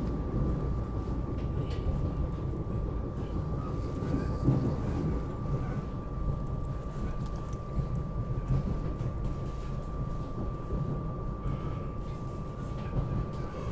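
Inside a moving SEPTA regional rail electric train car: a steady low rumble, with a constant thin high tone over it.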